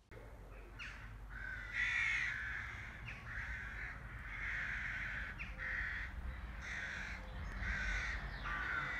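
A bird giving a series of short, harsh calls, roughly one a second.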